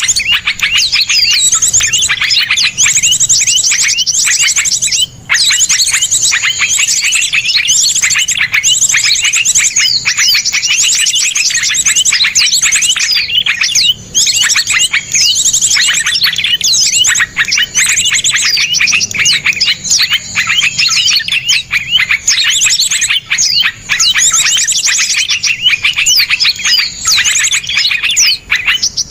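Small songbirds singing in a dense, continuous stream of rapid, harsh trills and chirps, the fast 'tembakan' phrases of a masteran recording used to teach cage birds their song. Only a few brief breaks interrupt it.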